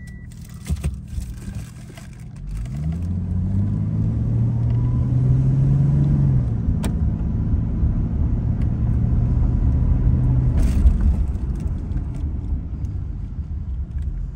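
Toyota Soarer 2.0GT's twin-turbo straight-six heard from inside the cabin as the car pulls away and speeds up to about 30 km/h. The engine note rises about three seconds in, holds, then eases off near ten seconds as the car slows.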